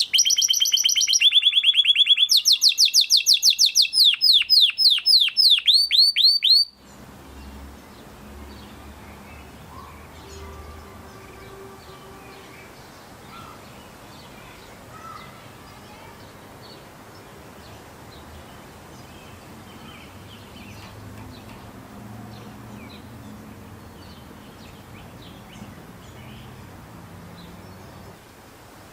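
Canary song: loud, fast rolling trills of repeated falling notes that stop abruptly about seven seconds in. After that there is only faint background hum with a few distant chirps.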